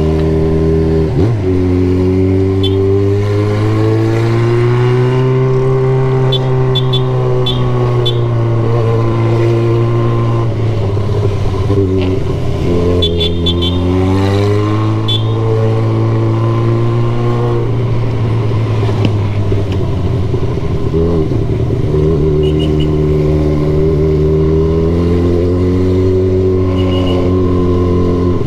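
Motorcycle engine heard from the rider's seat while riding in traffic. Its pitch rises and eases back several times with the throttle, with no sharp revving.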